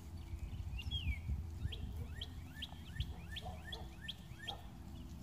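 A songbird singing outdoors: one falling note, then a quick run of about nine falling notes, about three a second, over a low rumble.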